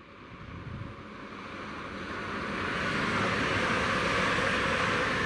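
Grand Central Class 180 diesel multiple unit passing at speed on the main line: a rushing roar of wheels on rail and underfloor running gear that builds steadily and is loudest in the second half as the train goes by.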